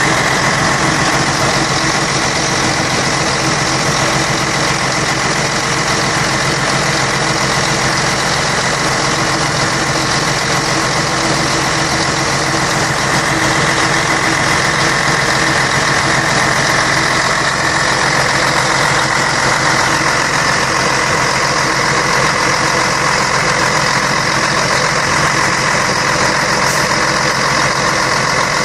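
Scania K113 bus diesel engine running at a steady speed, a continuous even drone with diesel clatter.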